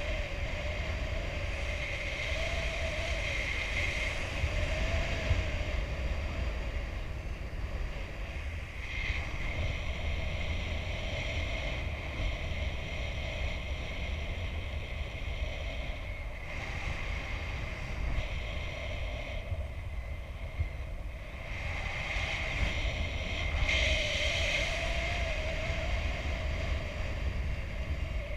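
Airflow buffeting the microphone of a paraglider pilot in flight: a continuous low rush with a steady whistle that wavers slightly in pitch. The whistle grows louder for a few seconds twice.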